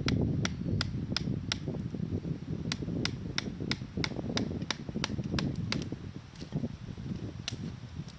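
Wood campfire crackling, with sharp irregular pops a few times a second over a low steady rumble.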